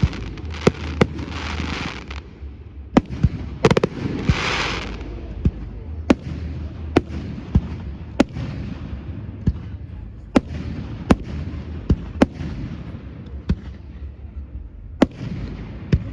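Aerial fireworks display: a steady run of sharp shell bursts, about one bang a second, with a low rumble underneath and short stretches of hissing, sparkling noise.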